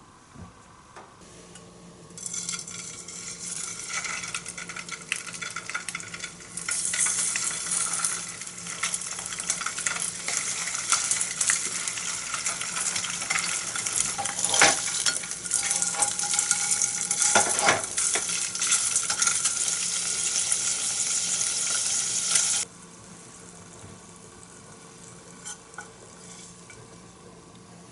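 Food sizzling and crackling in hot fat as it cooks, with a couple of sharp knocks of a utensil partway through. The sizzle cuts off abruptly near the end, leaving a faint steady hum.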